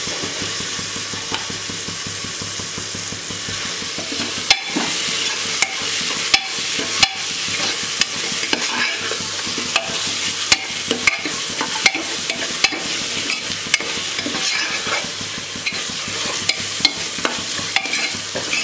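Onion-tomato masala with fresh mint frying in an aluminium pressure cooker, sizzling steadily while a steel spoon stirs it. From about four seconds in, the spoon clicks and scrapes against the pot at irregular intervals.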